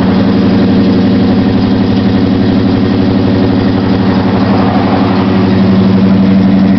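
1977 Chevrolet C10's carbureted engine idling steadily through Flowmaster mufflers, still warming up after a cold start. It gets a little louder near the end.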